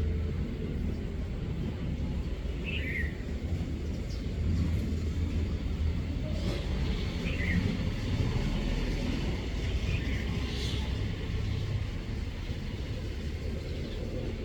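Steady low outdoor rumble, with a few short, high, falling bird chirps scattered through it.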